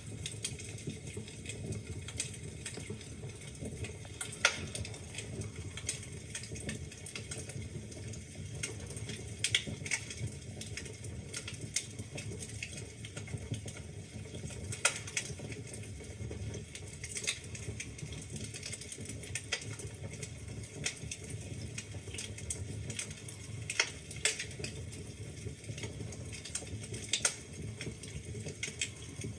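Wood fire burning in a fireplace, crackling with irregular snaps and pops over a steady low rumble of the flames.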